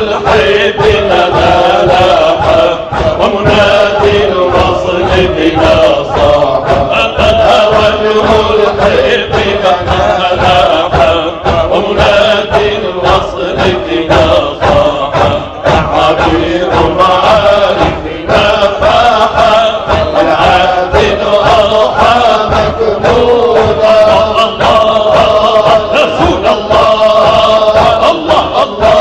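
Male voices chanting an Arabic devotional song (inshad) in chorus, held sustained lines over steady beats of percussion.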